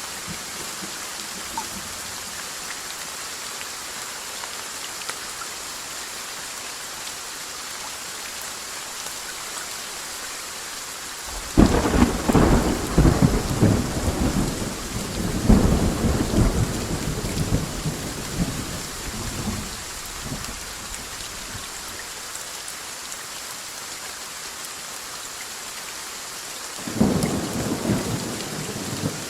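Steady heavy rain with a thunderclap that breaks out about a third of the way in and rumbles on for several seconds, then a second rumble of thunder starting near the end.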